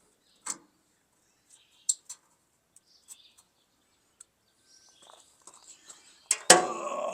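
Scattered sharp clicks and taps, then a loud double knock about six and a half seconds in, followed by a rattling, ringing noise that dies away over a second or so.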